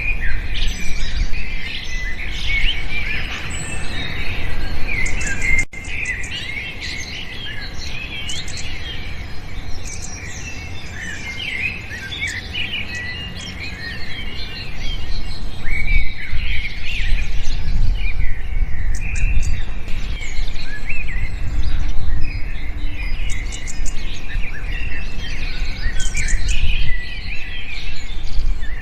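Many small birds chirping together in a dense chorus of short, high chirps and calls, thinning for a few seconds in the middle, over a steady low rumble.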